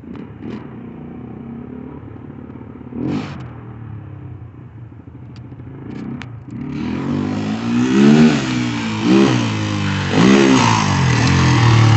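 Dirt bike engine running at low revs, then from about seven seconds in much louder, revving up and dropping back in swells about a second apart as the bike is ridden hard.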